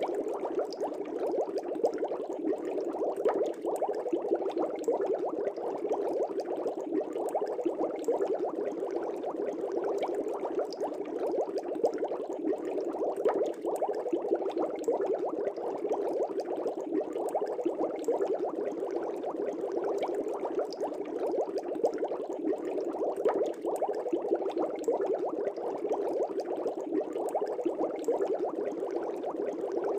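Aquarium air bubbles rising and breaking at the water surface: a continuous dense bubbling with many small pops.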